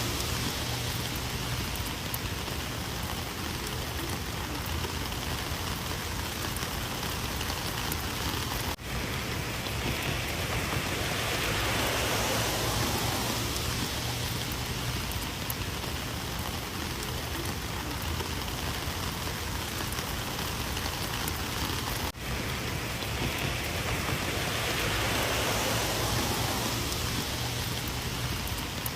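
Steady rain falling, with two very brief dips in level.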